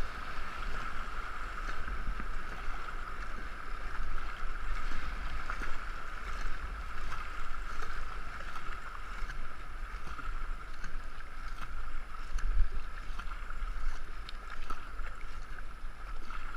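A two-man racing canoe underway on a river: a steady rush of water and paddling noise, with low wind rumble on the microphone.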